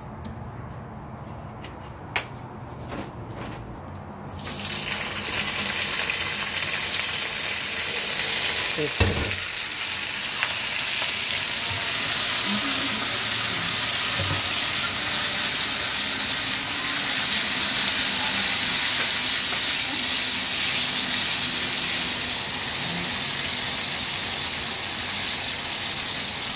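Crickets frying in hot oil in a small non-stick pan: a loud sizzle starts suddenly about four seconds in and keeps going as they are stirred with wooden chopsticks. There is a single knock about nine seconds in.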